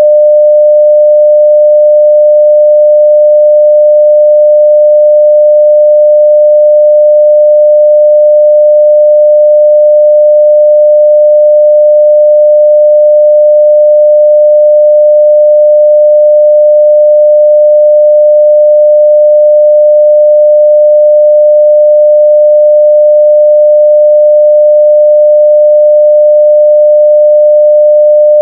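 Continuous 600 Hz sine-wave test tone at full level, one pure steady pitch with no change.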